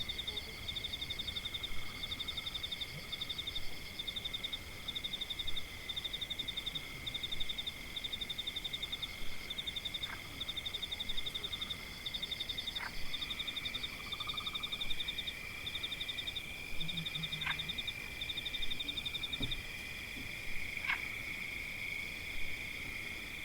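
Forest ambience of a chorus of calling animals: a high, rapidly pulsed trill repeating in bursts of about a second over a steady high drone. A few short, sharp chirps stand out, about four times.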